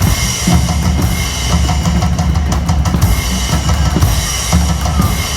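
Loud, steady drum-kit beat with bass drum, snare and cymbals, the driving percussion of a street drumming show.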